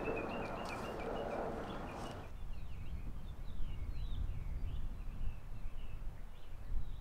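Small forest birds chirping, a run of short rising and falling calls from about two seconds in, over a low steady rumble.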